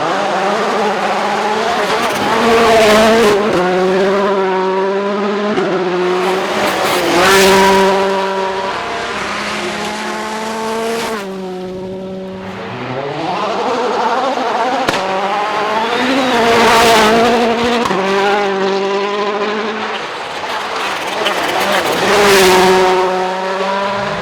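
World Rally Car 1.6-litre turbocharged four-cylinder engines driven flat out, the note stepping up through the gears and swelling loud four times as cars pass close. A brief lift off the throttle comes near the middle.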